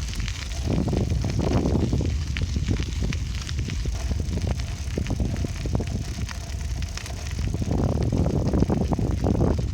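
Bicycle being ridden, heard from a camera riding with it: a steady low rumble of wind on the microphone with a dense run of small clicks and crackles from the tyres and bike rattling over the path. The noise swells twice, near the start and again near the end.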